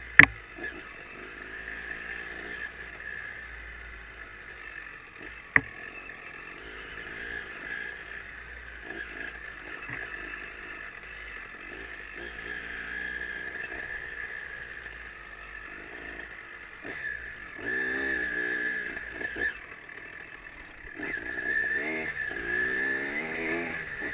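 Trail motorcycle engine running and revving as the bike rides, the revs rising and falling, louder in two stretches near the end. Two sharp knocks, one at the very start and one about five and a half seconds in.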